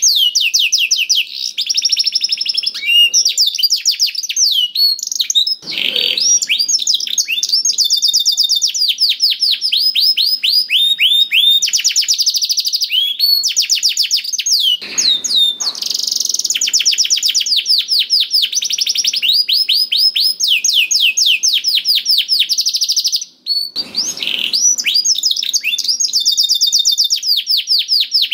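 Domestic canary singing continuously in long, fast trills of rapidly repeated high notes, one rolling phrase after another. Three short, harsher, lower bursts come through, about six, fifteen and twenty-four seconds in.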